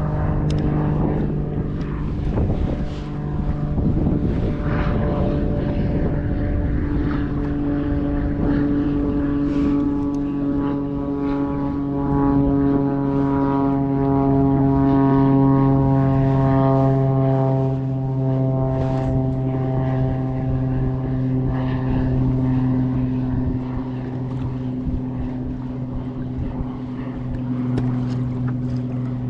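A steady engine drone of a passing motor, a low pitched hum that sinks slightly in pitch around the middle.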